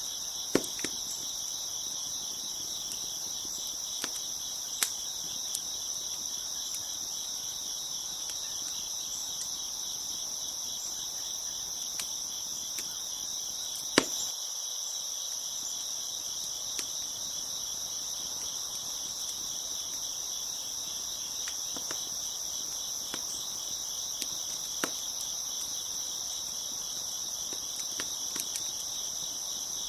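Steady chorus of crickets chirping, with scattered sharp pops and crackles from a wood fire, the loudest pop about halfway through.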